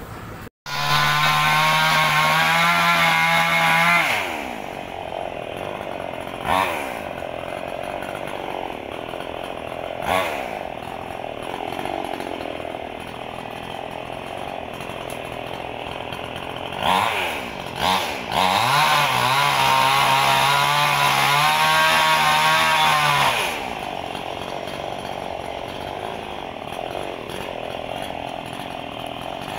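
Ecolite EC6800 58 cc single-cylinder two-stroke chainsaw running: held at full throttle for about three seconds, dropped back to idle with a couple of short throttle blips, then revved up again for about five seconds before settling back to idle.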